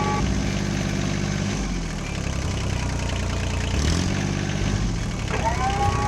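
Tractor engine running at low revs, its pitch sagging and picking up again twice. A higher whine rises in and holds near the end.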